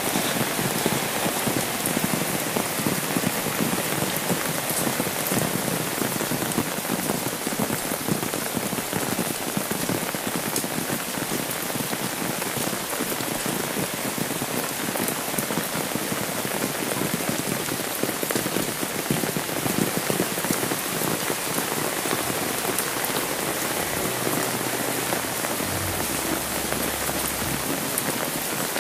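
Steady rain falling on an umbrella held overhead and on a wet, water-covered road, a dense even hiss of drops with no pauses.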